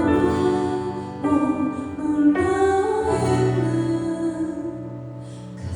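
Live song performance: a female voice holding long notes over instrumental accompaniment, changing pitch every second or two.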